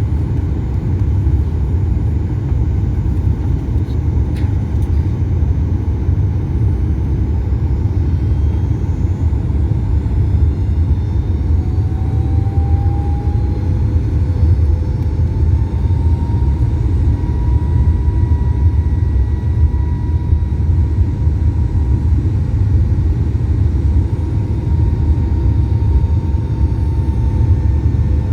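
Boeing 737 MAX 8 in flight, a steady low rumble of engine and airflow noise with a faint tone that rises slightly about twelve seconds in and then holds.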